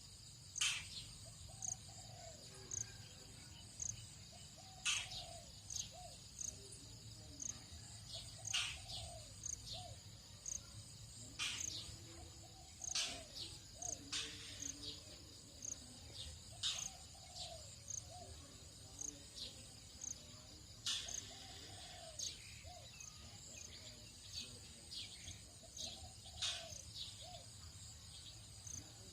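Tropical dawn chorus of birds and insects: a steady high insect drone with a faint high chirp repeating about once a second, sharp downward-sweeping bird calls every few seconds, and lower short calls in between.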